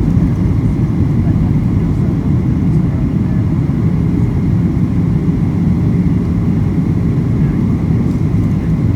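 Steady low rumble inside the cabin of a Boeing 737-800 airliner: the noise of its engines and of the air rushing past the fuselage, unchanging throughout.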